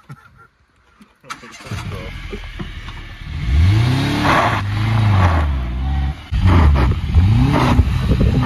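A Mk2 Renault Clio's engine starting about a second and a half in, then revved several times, its pitch rising and falling with each rev. The owner says it has a big cam fitted.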